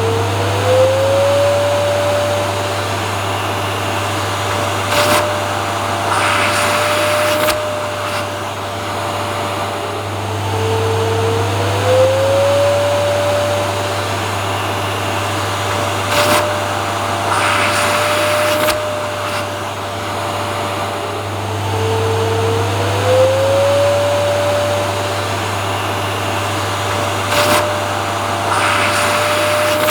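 Vacuum cleaner motor running steadily. Its pitch rises slightly about every eleven seconds, with short bursts of hiss in between, in a repeating loop.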